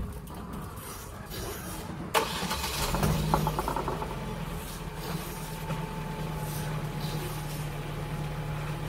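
Ford C-Max diesel engine cranking briefly and starting about three seconds in, then idling steadily. A sharp click comes just before the start.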